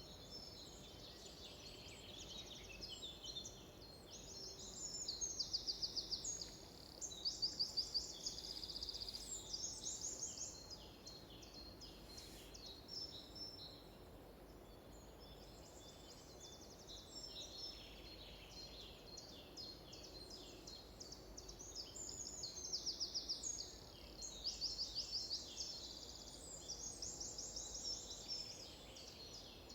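Several songbirds singing at once, a dense chorus of chirps and whistles with loud rapid trills now and then, over a faint steady background hiss.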